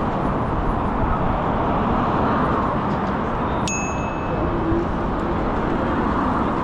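Steady wind and road noise from riding an electric scooter, with a single short metallic ding about halfway through.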